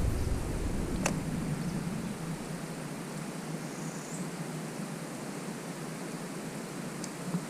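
Wind noise outdoors on open water: a low buffeting rumble on the microphone in the first second or so that then dies down to a steady hiss, with a single sharp click about a second in.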